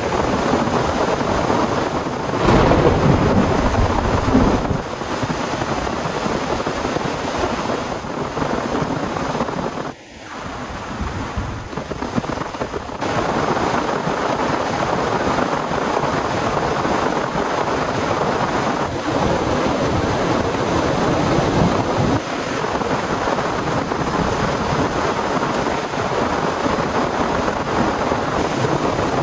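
Heavy rain pouring steadily in a thunderstorm, with a loud low rumble of thunder about two to four seconds in. The sound drops out briefly about ten seconds in, then the downpour carries on.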